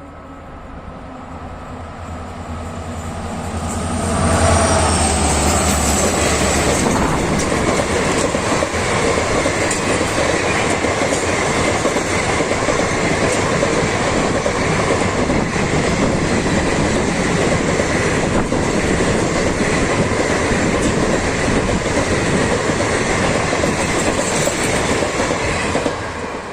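Passenger train hauled by a WDP4D diesel locomotive passing at speed. The sound builds as it approaches, and the locomotive's deep engine drone peaks about four seconds in. The coaches then rush past with steady wheel-on-rail clatter for some twenty seconds, dropping off near the end.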